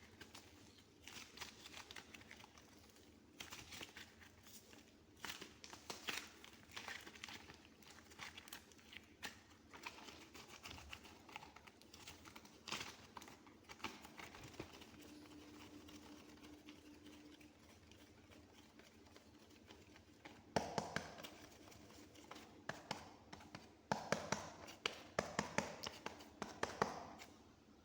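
Soft modelling clay being squeezed and pressed by hand close to the microphone, giving faint sticky crackles and small taps. Louder clusters of clicks come about two-thirds of the way through and again near the end.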